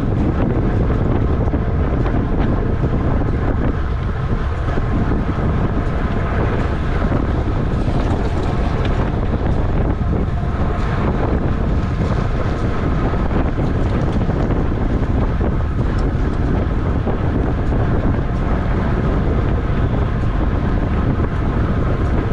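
Steady, loud wind noise buffeting the microphone of a camera on a road bike racing at high speed in a criterium.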